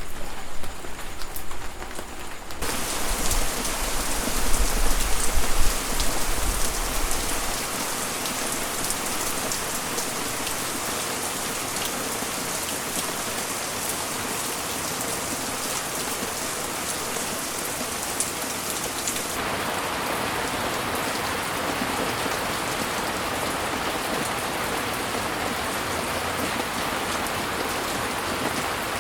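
Heavy rain falling steadily, an even dense hiss of drops, that starts abruptly about two and a half seconds in after a quieter stretch. A deep low rumble lies under the rain at first and dies away by about eight seconds; about two-thirds of the way through the rain's tone changes, with less high hiss and more mid-pitched patter.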